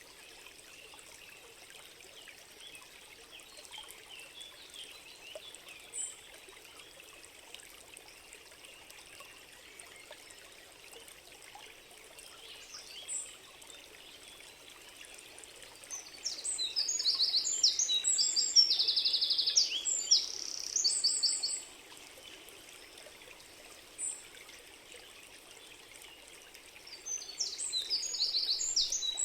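Stream of running water trickling steadily, with a songbird singing loud, rapid trilled phrases for about five seconds in the second half and starting again near the end. A few single high chirps come in between.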